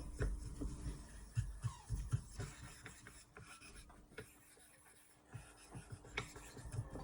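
Scattered light scrapes and knocks as a splash-and-go whetstone is rubbed clean of the marks left from sharpening, easing off about halfway through. A faint steady hum runs underneath.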